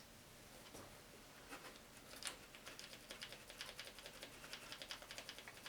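Faint clicking of an Aiwa TPR-910 boombox's record button and its slide switch being worked over and over, a few single clicks and then a fast run of several a second from about two and a half seconds in. The switch is being worked in cleaning spray to free it, since it feels sluggish and the owner suspects crud in it.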